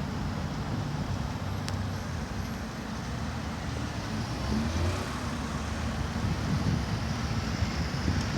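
Lotus sports car engine running while driving, with a steady road-noise hiss; the sound grows louder toward the end.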